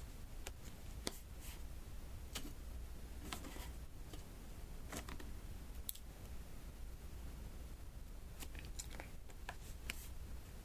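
Small irregular clicks and taps of round diamond-painting beads being set one at a time onto the sticky canvas, over a low steady hum.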